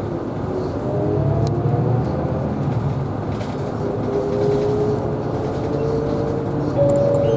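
Isuzu Erga Hybrid city bus driving, heard from on board: a steady low rumble with a thin whine that climbs slowly in pitch as the bus gathers speed, growing a little louder near the end.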